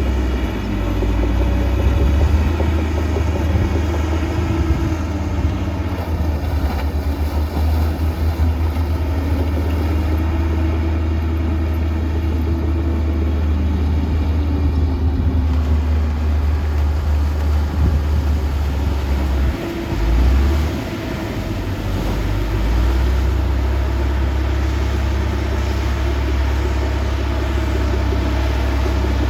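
Diesel engine of heavy earthmoving machinery running with a deep, steady rumble, its pitch drifting up and down as it works under load.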